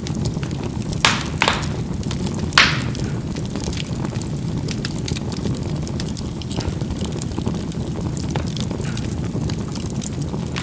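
Charcoal burning in a fireplace: a steady low rumble of the fire with sharp pops as the charcoal bursts, three loud ones in the first three seconds, then fainter crackling ticks.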